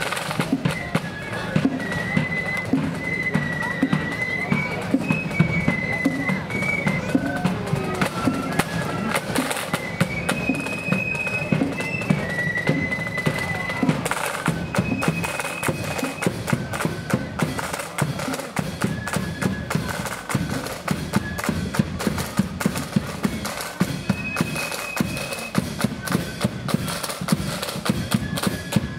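Marching flute band playing a march: flutes carry a high melody over a steady, rapid beat of snare and bass drums.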